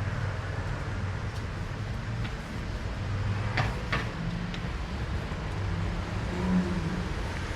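Low, steady rumble of street traffic, with engine hum, and a few sharp clicks; the loudest two clicks come close together a little past the middle.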